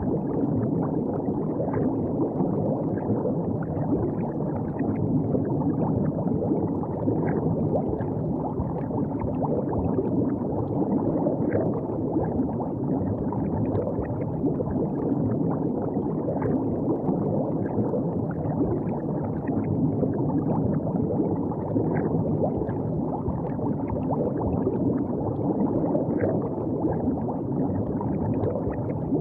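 River water gurgling and lapping steadily at the bank, with faint small splashes scattered through it.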